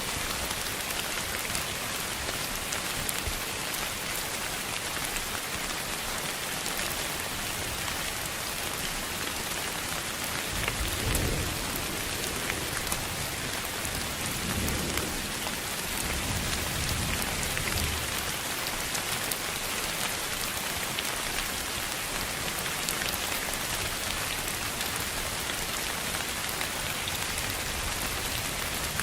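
Steady rain-like hiss with fine pattering, and low rumbles about eleven seconds in and again from about fifteen to eighteen seconds in.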